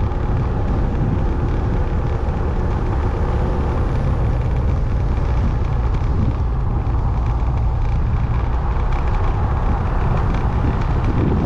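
Motorbike riding along a road: steady engine, road and wind noise.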